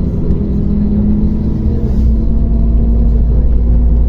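MAZ-105.465 articulated city bus under way, heard from inside the cabin: engine and drivetrain running with a steady low drone and rumble that grows heavier about two seconds in.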